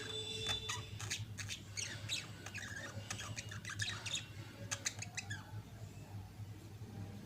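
Budgerigars chattering, with rapid clicks and short squawky chirps coming thick and fast, then thinning out about five seconds in.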